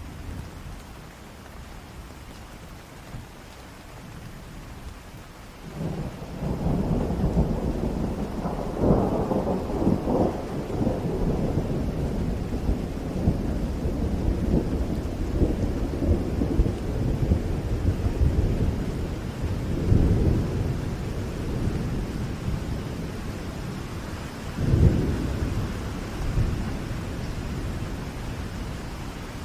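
Steady rain with thunder: about six seconds in, a rolling rumble breaks in and goes on to the end, swelling again in louder peals twice, about two-thirds of the way and near the end.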